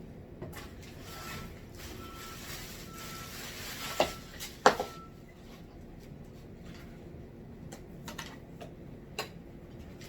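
Clicks, rustling and knocks from a backpack vacuum cleaner and its packaging being handled, with two sharp knocks about four and five seconds in. A series of five short high beeps sounds between about one and five seconds in.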